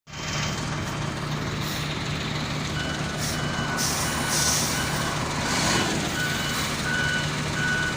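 Heavy diesel engine of a bulldozer running steadily while it unloads off a lowboy trailer, with a reversing alarm beeping over and over from about three seconds in.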